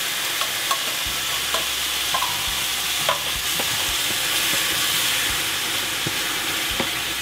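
Chopped tomatoes, onion and canned tomato sauce sizzling in olive oil in a hot stainless steel skillet while a wooden spoon stirs them: a steady frying hiss with scattered small pops and clicks.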